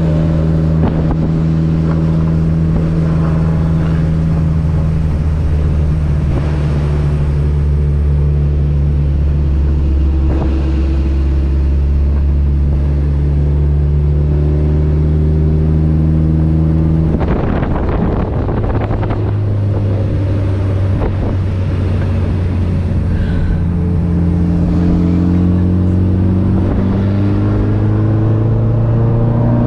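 Car engine running at a steady speed for a long stretch. Just after halfway there is a short rush of noise, and then the engine note climbs steadily as the car accelerates.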